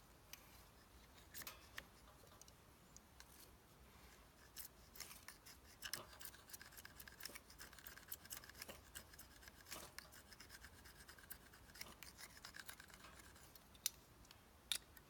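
Faint, irregular scraping and clicking of a striker or blade dragged along a ferrocerium fire-starter rod, with a few longer scraping strokes and two sharper clicks near the end.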